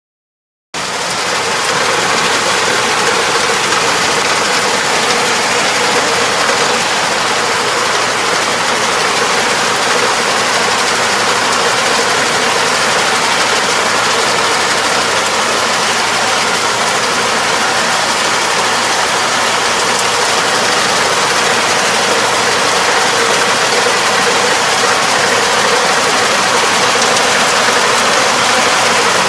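Farm machine engine running steadily, cutting in abruptly about a second in.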